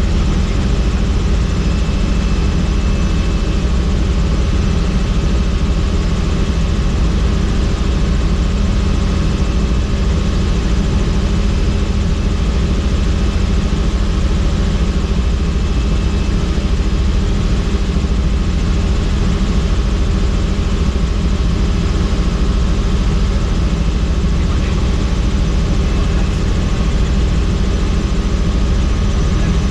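Helicopter in flight, heard from aboard: a steady drone of rotor and turbine engine noise with no change in pitch or level.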